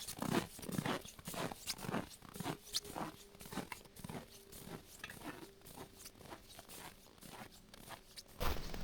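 Snow crunching in a run of short, irregular strokes, a few a second.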